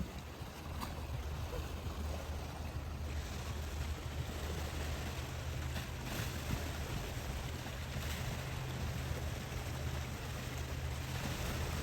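Sea waves washing against rocks, with wind and a steady low rumble underneath.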